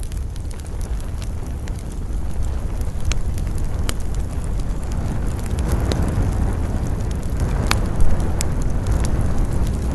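Wood campfire crackling, with scattered sharp pops over a steady low rumble of wind; the loudest pop comes about eight seconds in.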